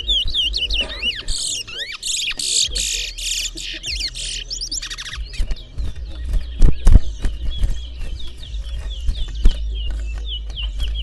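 Towa towa (chestnut-bellied seed finch) singing: rapid warbling whistles that swoop up and down in pitch, with a loud harsh buzzy run from about a second in to about five seconds in. Sharp clicks and knocks sound in the second half.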